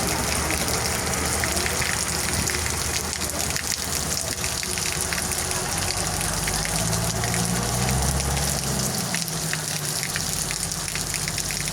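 Heavy rain falling: a steady dense hiss of drops with many small splashes and a low rumble underneath.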